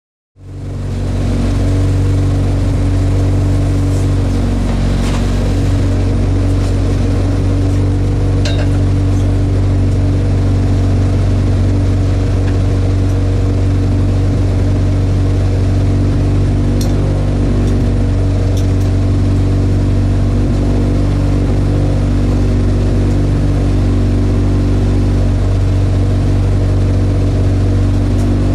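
Car engine running steadily at an unchanging pitch, heard from inside the cabin, with a few light clicks over it.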